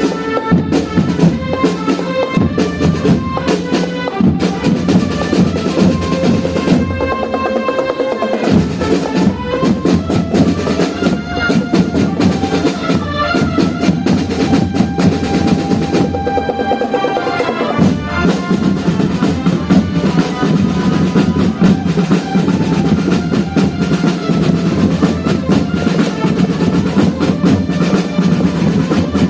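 Marching band playing: snare and bass drums with rolls under a melody of held notes.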